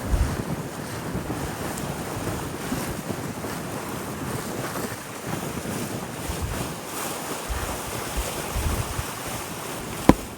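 Wind buffeting the microphone over a steady rush of sea water, with a single sharp click near the end.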